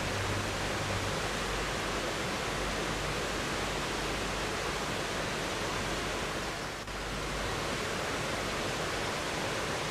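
River water rushing steadily, an even wash of flowing-water noise, briefly dipping about seven seconds in.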